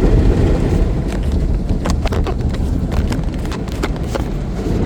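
Inside a car in an automatic car wash: a steady low rumble with irregular taps and knocks against the body.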